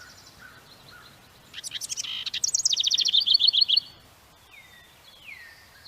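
House wren singing one burst of song about a second and a half in: a rapid jumble of chattering notes running into a fast trill, lasting about two seconds. Two faint falling whistles follow near the end.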